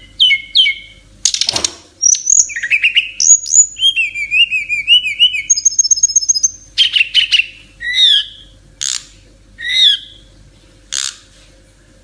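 An SRDC (sikatan rimba dada coklat, a jungle flycatcher kept as a songbird) singing a fast, varied song of clear whistles, quick repeated trills and sharp rasping notes. About halfway through, the song breaks into separate short calls with pauses between them.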